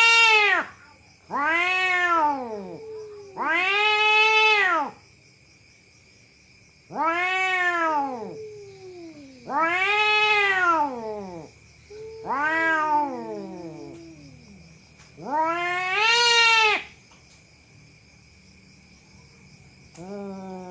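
Cat yowling: a series of drawn-out calls, each rising and then falling in pitch, about seven in all with gaps of a second or more between them. A faint steady high tone sits underneath.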